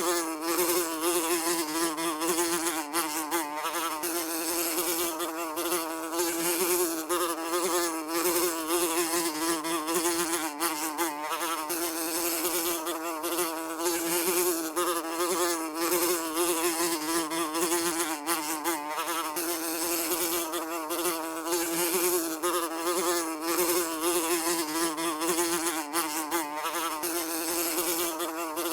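A fly buzzing continuously in flight: a steady, low buzz whose pitch wavers slightly up and down as it flies.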